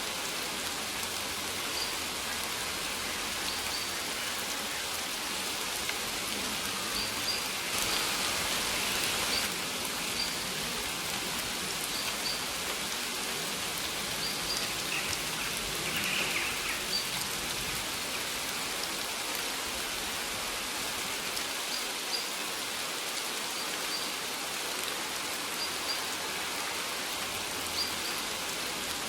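Steady rain falling, with short high bird chirps every second or two. The rain swells briefly about eight seconds in.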